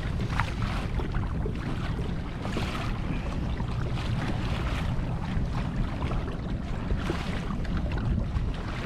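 Wind buffeting the microphone with a steady low rumble, and choppy sea water sloshing and splashing against a kayak hull in surges.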